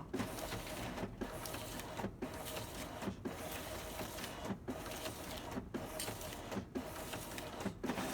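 A scanner running with a strange mechanical noise, broken by brief pauses about once a second with small clicks: the abnormal noise the owner is trying to show.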